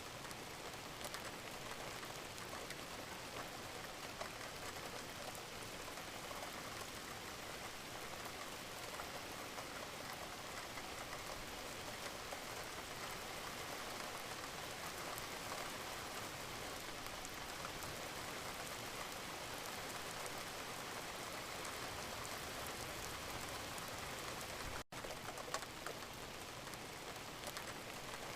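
Steady, gentle rain falling, a dense even patter of many drops. It cuts out for an instant near the end.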